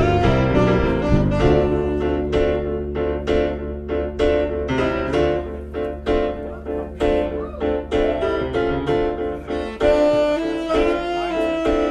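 A band playing an instrumental passage: a run of sharply struck notes over a steady low bass, growing fuller again about ten seconds in.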